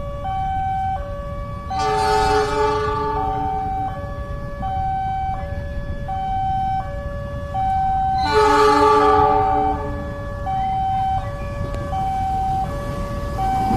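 Railway level-crossing warning alarm sounding a steady alternating two-tone signal, warning of an approaching train. Two louder horn blasts come through it, about two seconds in and about eight and a half seconds in, over a low background rumble.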